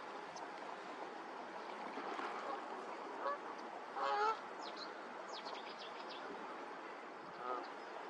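Waterbirds across a lagoon giving short honking calls, three times, the loudest about four seconds in. A few thin high chirps from smaller birds come just after it, over a steady hiss of wind and water.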